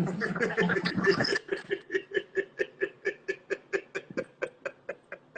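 A person laughing: a breathy burst of laughter, then a long run of quick, even chuckles, about five a second, that slowly fade away.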